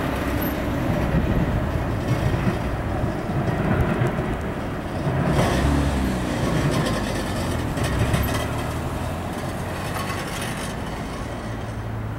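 Norfolk Southern intermodal freight train rolling past, a steady rumble of railcars that eases off a little toward the end. About five to six seconds in, a road vehicle's engine passes close by.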